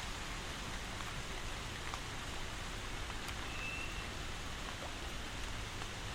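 Steady rain falling, an even hiss with scattered faint drop ticks. A brief high tone sounds about three and a half seconds in.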